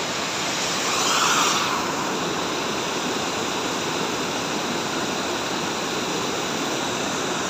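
Waterfall rushing steadily, an even roar of falling water, with a brief louder swell of hiss about a second in.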